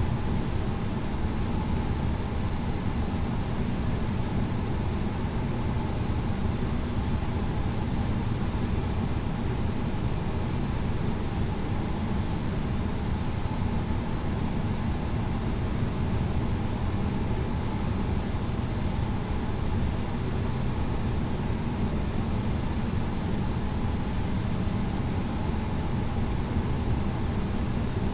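Cabin noise of an Airbus A320neo airliner: a steady, even rumble of engines and rushing air that does not change.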